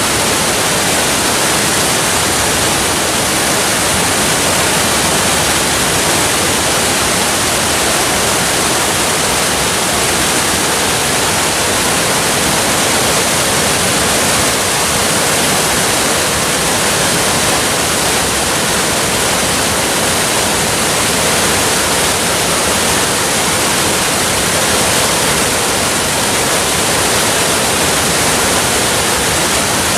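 Waterfall: a steady, even rush of falling water, loud and unchanging.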